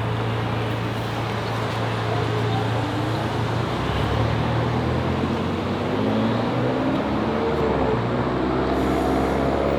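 Steady road-traffic noise: a continuous low rumble of vehicles.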